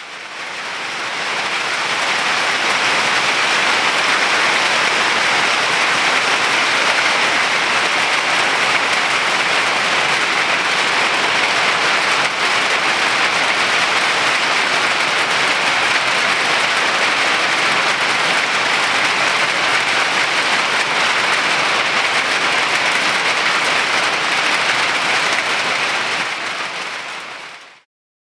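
Pea-sized hail coming down hard: a dense, steady clatter of countless small impacts. It fades in at the start and fades out near the end.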